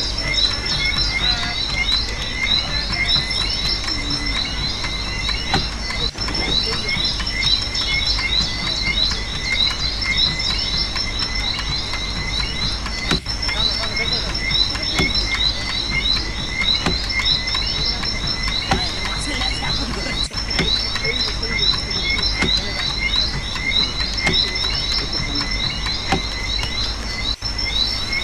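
Dense chorus of frogs and insects, with rapid overlapping chirps and a steady high-pitched insect trill over a constant low hum.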